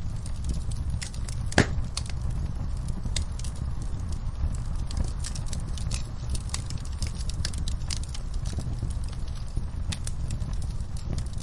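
Wood fire crackling, with frequent sharp pops over a steady low rumble; one louder pop about a second and a half in.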